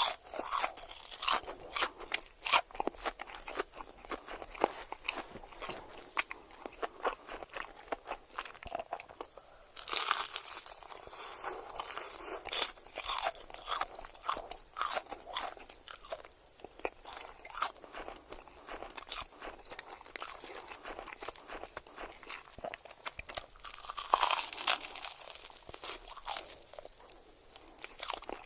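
Close-miked crunchy eating: a person bites into crisp food and chews with loud crackling crunches. Sharp bursts of biting come at the start, about ten seconds in and about twenty-four seconds in, with steady crunchy chewing in between.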